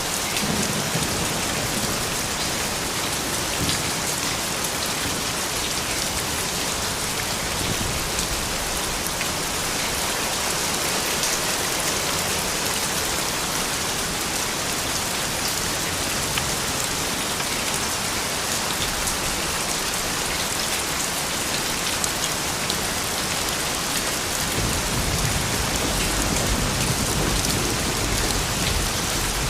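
Steady rain falling on a surface: a dense, even hiss with fine scattered drop ticks. A low rumble swells in underneath about three-quarters of the way through.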